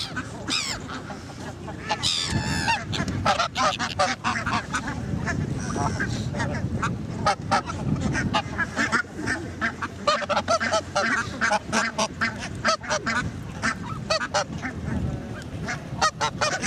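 A flock of geese and ducks honking and calling, many short calls overlapping, with a run of higher sliding calls about two seconds in.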